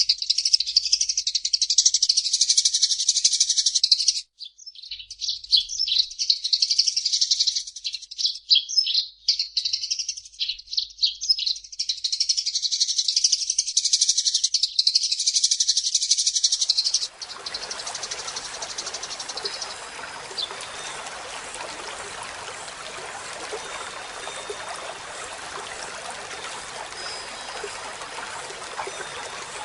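Eurasian tree sparrow chirping and chattering in fast, dense runs of high notes. About two-thirds of the way through, it cuts abruptly to a steady rush of running water, with faint high chirps over it.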